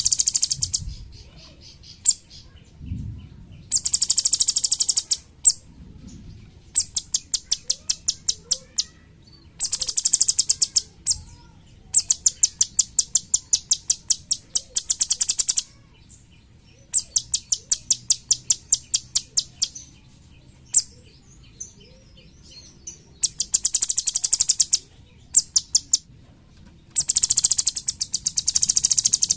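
A caged cucak cungkok songbird singing: very high, rapid dry trills of a second or more, alternating with slower runs of sharp single notes at a few per second, repeated about seven times.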